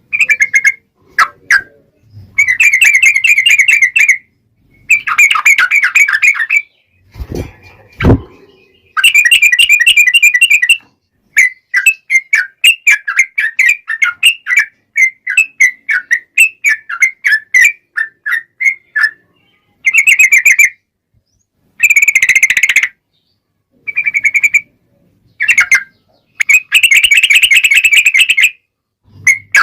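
Yellow-vented bulbul (trucukan) singing its long rolling chatter: loud, bubbly phrases repeated again and again with short gaps. Two brief low thumps come a little after seven and eight seconds in.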